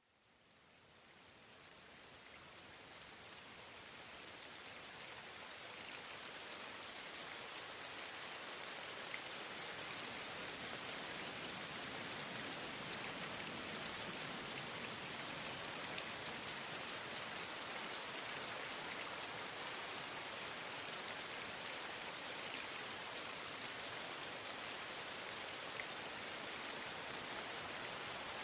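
Steady rainfall with scattered sharp drop ticks, fading in from silence over the first several seconds and then holding even.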